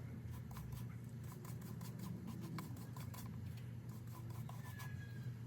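Light scratching and scattered small clicks from craft materials being handled on a work surface, over a steady low hum.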